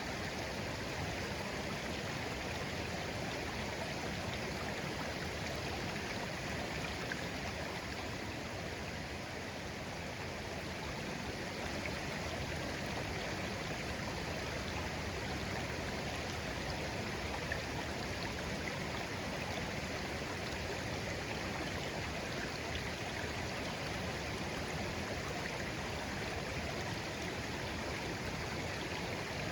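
Clear shallow stream babbling steadily, an even rush of water.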